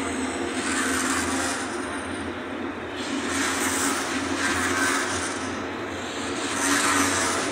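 Frecciarossa high-speed train moving past along the platform: a steady rolling rush that swells and fades every couple of seconds.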